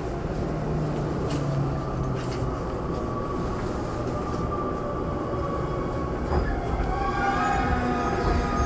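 Running noise heard from inside a Tobu 20400 series motor car, with the whine of its Toyo GTO inverter. The train is slowing for a station stop. Several tones in the whine come up over the last couple of seconds.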